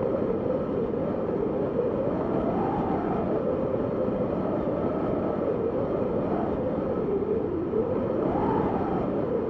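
Wind blowing steadily, with a hollow whistle that wavers up and down in pitch and rises briefly in gusts about three seconds in and again near the end.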